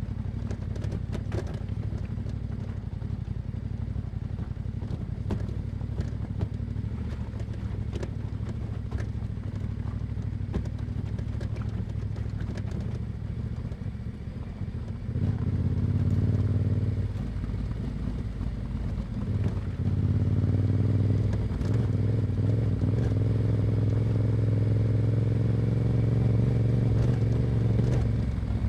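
Yamaha Ténéré 700's 689 cc parallel-twin engine through an Akrapovič exhaust, running at light throttle with scattered clicks and clatter. About halfway through it pulls harder and gets louder, eases off briefly, then holds a louder steady drone.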